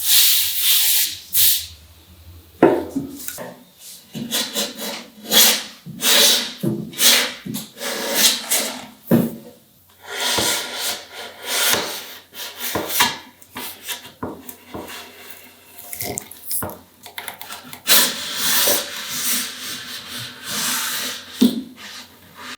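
Wood being worked by hand: irregular scraping and rubbing strokes, with a few sharper knocks.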